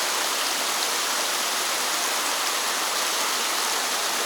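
Water rushing down a partly frozen waterfall: a steady, even hiss-like rush that holds unchanged throughout.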